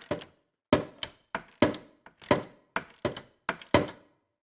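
A 3/8-inch drive ratchet with a 3/4-inch socket clicking as it tightens a new coolant temperature sensor into the engine: about a dozen sharp clicks, irregularly spaced, each with a brief ring.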